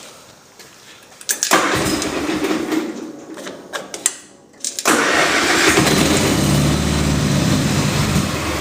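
Small gasoline lawn mower engine cold-started: it catches about one and a half seconds in and dies away, then catches again near the halfway point and keeps running. It is not running well, which the owner thinks calls for a carb clean.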